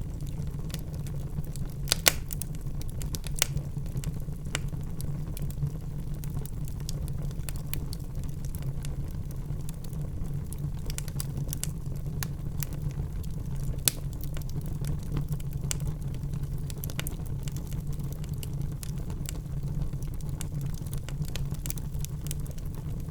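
Wood fire burning in a fireplace: a steady low rumble with irregular crackles and a few sharper pops, the loudest about two seconds in and near the middle.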